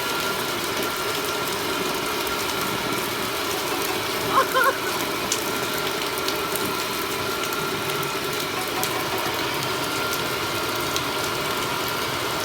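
Heavy rain falling steadily, a continuous even hiss, with one brief pitched call about four and a half seconds in.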